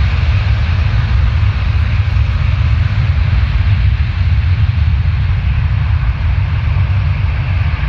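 Jet airliner engines running, a steady loud rumble with an even hiss above it.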